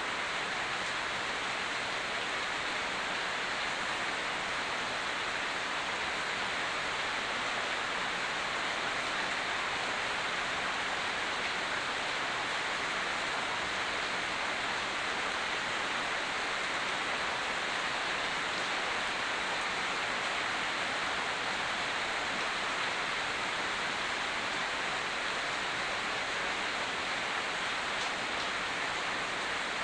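Steady, even hiss of heavy rain, unbroken and without distinct drops or other events.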